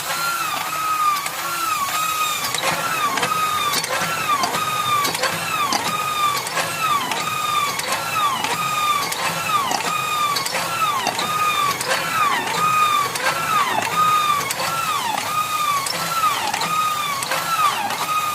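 High-pressure PCP air hand pump being worked stroke after stroke, each stroke a squealing whine that rises and falls, about two a second, with a click at each stroke. It is building pressure toward about 3,000 psi.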